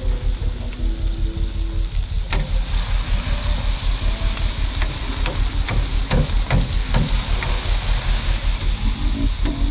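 An ATV engine running steadily under a constant hiss, with a few sharp knocks and clicks between about two and seven and a half seconds in.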